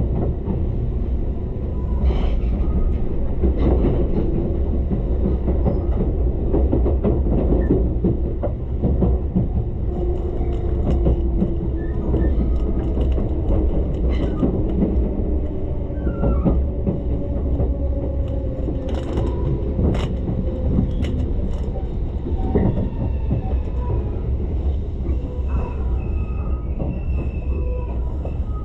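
Tobu Ryōmō limited express train heard from inside the car as it runs into a station: a steady deep rumble with clicks of the wheels over the rails, and a thin squeal that slides slowly down in pitch around the middle.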